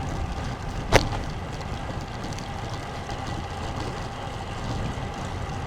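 Wind noise on the microphone and tyre noise from a road bike being ridden, with one sharp click about a second in.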